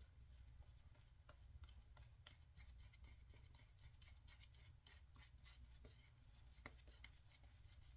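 Faint, irregular soft clicking and scratching of a horsehair shaving brush working wet lather, over a low steady hum.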